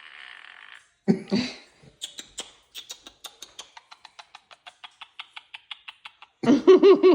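Quaker parrot vocalising: a short buzzy chatter, then a long run of sharp clicks at about five a second, ending in a loud warbling call near the end.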